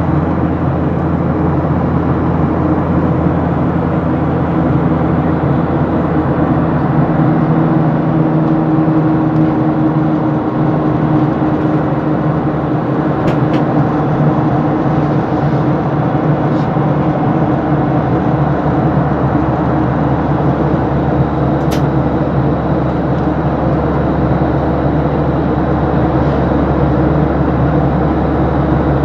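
Steady drone of an airliner's jet engines and rushing air, heard inside the cabin during the climb after takeoff, with a low hum that drops in its deepest part for a while and then returns.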